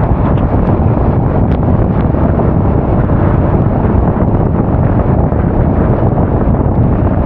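Heavy wind buffeting on an action camera's microphone while riding a Honda Forza 350 scooter, a loud, steady low rumble that masks the scooter's engine.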